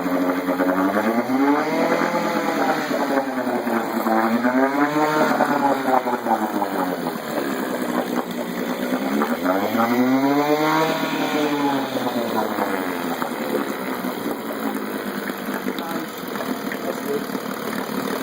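Johnson CD-20R 5.5 hp outboard motor, a small two-stroke twin, running and being revved up and back down three times, then running at a steadier speed for the last few seconds.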